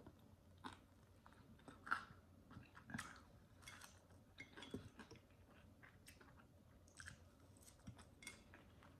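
Faint, close-miked chewing and nibbling as fried chicken wing meat is picked off the bone: an irregular string of soft, wet mouth clicks.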